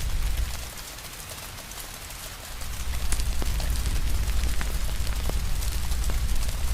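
Steady rain hiss with a wood fire crackling, sharp pops scattered throughout. Under them runs a low rumble that drops away for about two seconds near the start, then comes back.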